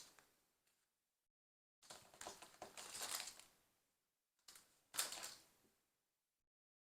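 Plastic LEGO pieces clicking and rattling as they are handled and pressed together. There is a short click at the start, a longer run of rattling clicks from about two to four seconds, and another burst of clicks around five seconds.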